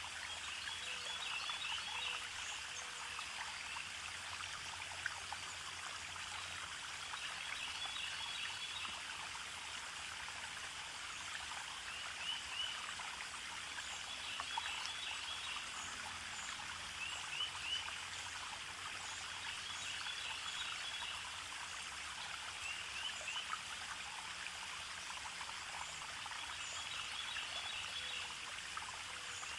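A stream running steadily, with quick clusters of high chirping calls repeated every two to three seconds.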